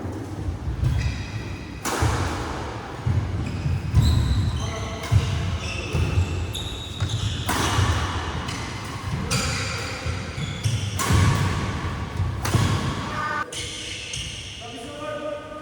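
Badminton doubles rally in an indoor hall: sharp racket strokes on the shuttlecock every second or two, players' feet thudding on the court, and short shoe squeaks.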